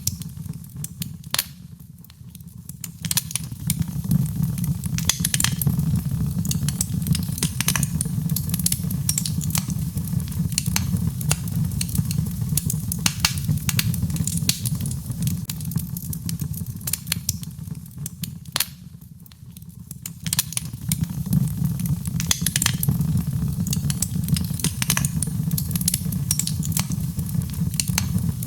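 Birchwood fire burning in a fireplace, crackling with frequent sharp pops over a steady low rumble of the flames. The crackling eases for a moment about two seconds in and again around nineteen seconds.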